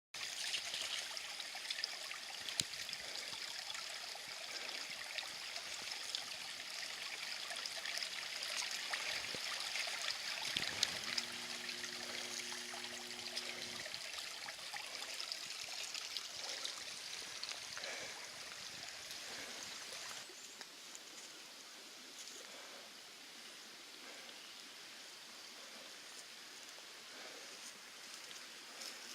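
A small stream running and trickling steadily, the water sound easing somewhat about two-thirds of the way through. Near the middle a faint, steady low hum lasts about three seconds.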